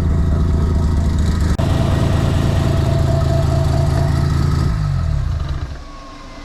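Big-turbo semi-peripheral-port Mazda FD RX-7 twin-rotor engine running at a steady, pulsing idle. About four and a half seconds in, its pitch falls and it winds down to a stop.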